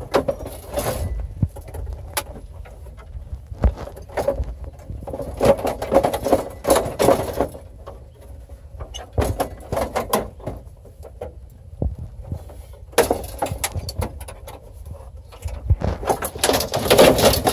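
Irregular knocks, clicks and rattling of plastic and metal as a GMC truck's dashboard is pried and pulled apart, its clips snapping loose, with loose parts jangling.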